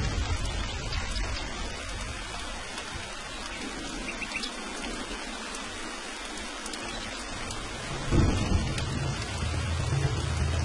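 Steady rain hissing, with thunder: a low rumble dies away over the first few seconds, and a new roll of thunder breaks about eight seconds in and keeps rumbling to the end.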